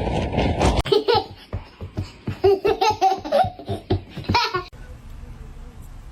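A person laughing hard in rapid, repeated bursts for about four seconds, then stopping. Before it, a loud rushing noise cuts off abruptly under a second in.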